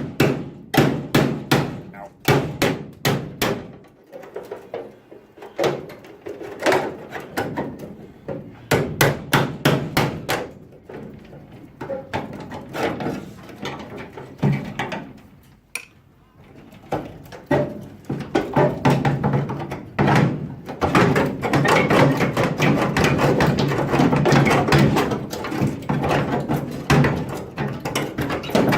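Hammer driving a cold chisel into the steel body panel of a Ford Cortina MkV, knocking a partly loosened panel free. Sharp metallic strikes come in quick bursts with short pauses in the first half, then run almost continuously from a little past halfway.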